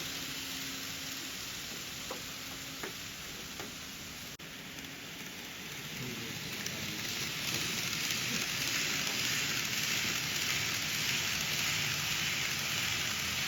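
Steady rushing hiss of N-gauge model trains running on the layout's track, with a few faint clicks in the first four seconds. It grows louder about six seconds in, as if a train draws near.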